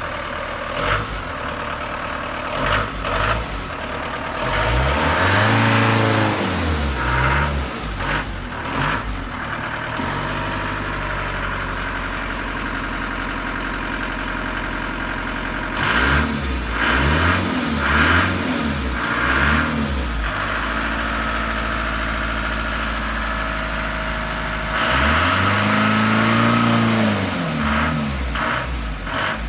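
1986 Ford Transit van's engine running just after a cold start: steady idle, revved up and back down in three spells, about five seconds in, around sixteen to twenty seconds in with several quick blips, and about twenty-five seconds in.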